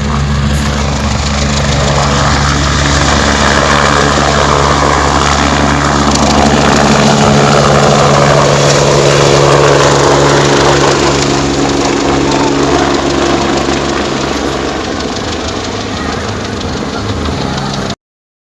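Helicopter flying, its rotor and engine sound building to a peak about halfway through and then fading, as in a pass overhead; it cuts off suddenly near the end.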